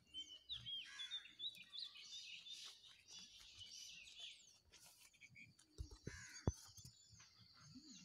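Birds chirping and trilling, busiest in the first half, over a steady high-pitched drone. About six seconds in come a few low thumps and one sharp click.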